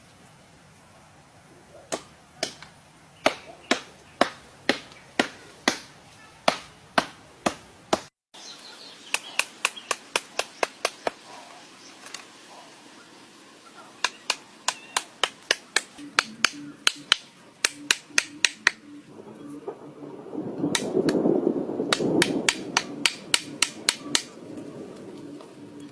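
Runs of sharp, evenly spaced blows of a hand tool striking something, about two to three strikes a second, breaking off and starting again several times. A duller noise swells up under the strikes about three quarters of the way through.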